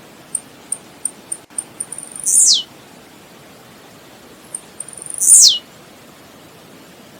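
Blue-black grassquit (tiziu) singing twice. Each song is a quickening run of short, very high ticks that ends in a loud, sharply falling 'tziu' note.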